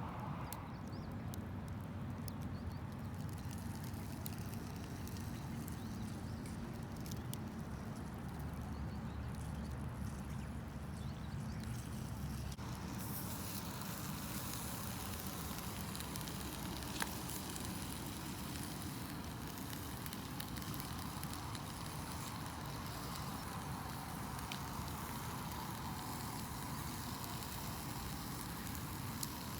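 Wood campfire burning, with scattered crackles and sharp pops over a steady low rumble; about halfway through, a steady high hiss joins in.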